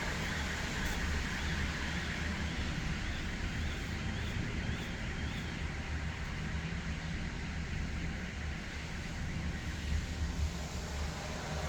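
Steady rain hiss over a low, continuous rumble like distant traffic. A faint, evenly repeating warble, about two a second, sounds in the first five seconds or so.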